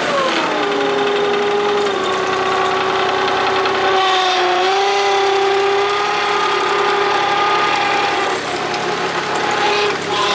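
Kubota D1105 three-cylinder diesel running the vacuum sweeper, with a strong steady whine over the engine noise. The pitch settles lower just as it starts and dips briefly about four seconds in.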